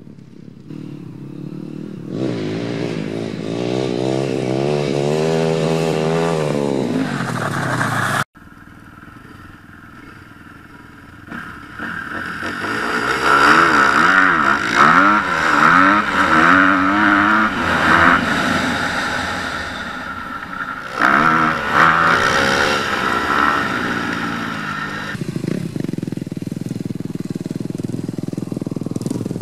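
Four-stroke dirt bike engine revving up and down while being ridden hard, with the pitch rising and falling repeatedly. The sound cuts off suddenly about eight seconds in and comes back quieter, then builds again into repeated hard revving.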